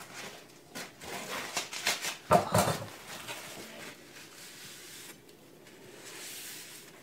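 Rustling and short knocks of handling as a freshly sharpened carbon-steel knife is wiped off and made ready for a cut test, with one louder knock about two and a half seconds in and a faint soft swish near the end.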